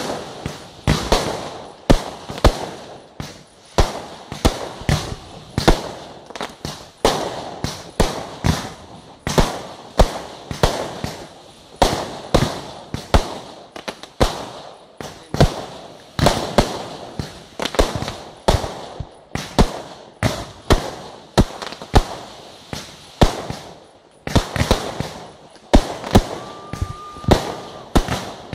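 Aerial firework shells bursting in a continuous barrage: sharp bangs about one to two a second, each trailing off in echo.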